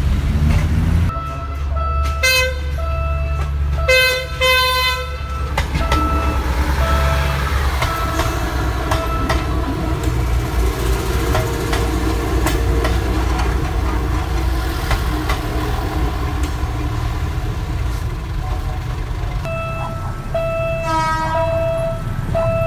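Passenger train passing close by with a steady low rumble of wheels on the rails. Its horn sounds twice early on, the second blast longer, and a repeating electronic beep goes on and off. Near the end another horn blast sounds over the same beeping.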